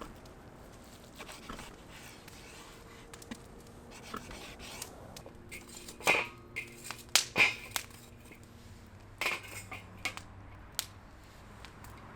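Cooking utensils knocking and clinking against a pan, a handful of sharp, separate knocks, most of them in the second half.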